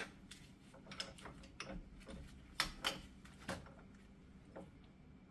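Hand tools and a wheel-bearing hub removal tool being handled and set back into place: a handful of sharp clicks and knocks, about five in the first four seconds, faint between them.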